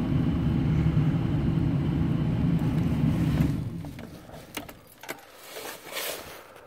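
A steady low rumble cuts off about three and a half seconds in. It is followed by soft clicks and the jingle of the ignition key as the key is cycled to run the 6.5 diesel's glow plugs before cranking.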